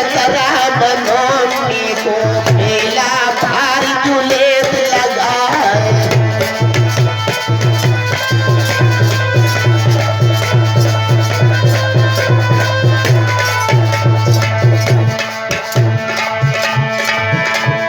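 Folk devotional music, instrumental passage: a hand drum plays a steady rhythm under a melody line. The melody wavers in the first few seconds, and repeated low drum strokes come in after about six seconds.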